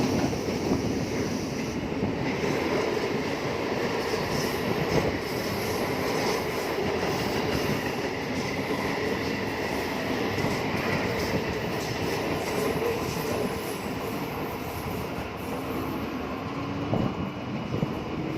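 Train running on the rails: a continuous steady rumble of wheels and carriages, with a few faint steady tones above it.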